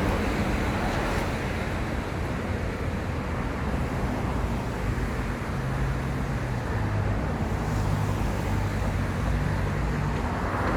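Steady city road traffic, with the low hum of a nearby vehicle's engine that shifts in pitch a few times in the second half.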